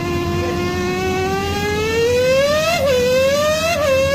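A person imitating a MotoGP racing motorcycle engine by blowing through cupped hands: one continuous, loud, buzzing pitched tone that slowly sinks and then climbs again, with two short pitch jumps about three and four seconds in.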